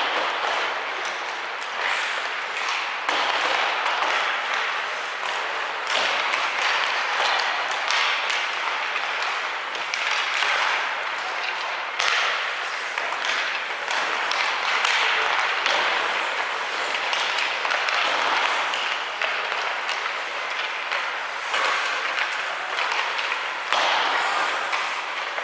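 Ice hockey game heard in an arena: a continuous noisy din of play and spectators, with occasional sharp knocks from sticks and puck.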